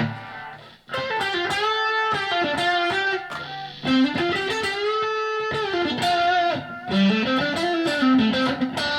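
Electric guitar played through a Blackstar ID:Core 40 combo amp. A chord rings out and fades in the first second, then a melodic single-note lead line follows with string bends and slides.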